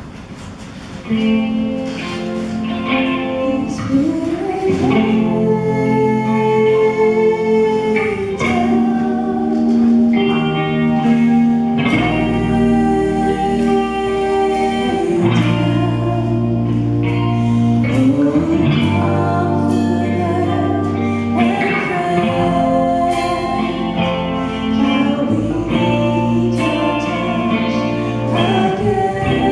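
Church worship band starts playing about a second in: strummed guitar chords over a steady bass line, with a voice singing a slow worship song.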